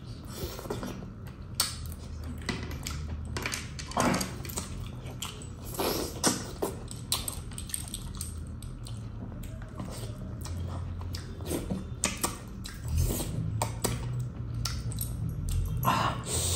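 Close-up eating sounds of a man biting and chewing meat off a mutton leg bone: irregular wet smacks and clicks of the mouth, with a low hum underneath at times.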